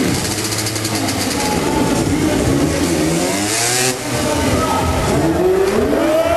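Motorcycle engines revving, their pitch rising and falling repeatedly, with more than one engine sounding at once.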